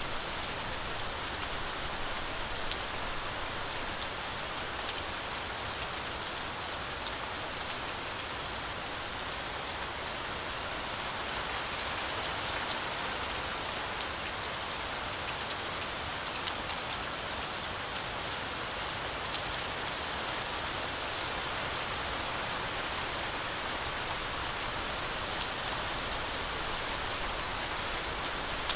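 Steady heavy rain falling through a forest canopy, a continuous hiss dotted with many fine drop ticks.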